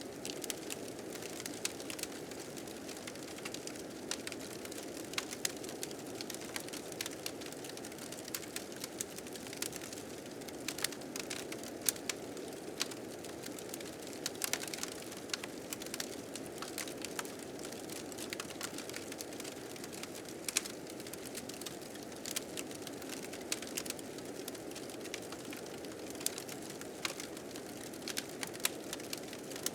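Steady blizzard wind blowing under the crackling of a fire, with sharp pops scattered irregularly throughout.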